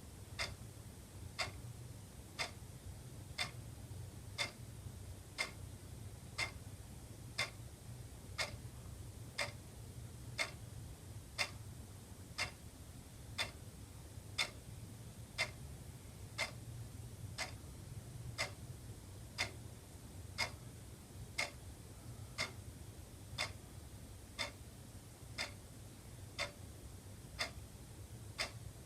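Wall clock ticking steadily at about two ticks a second, alternating louder and softer in a tick-tock pattern, over a faint steady low hum.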